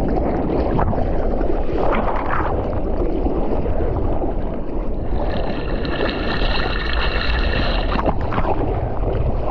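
Wind and water noise of a boat under way, loud and steady. A steady high whine of several tones joins in about five seconds in and stops about three seconds later.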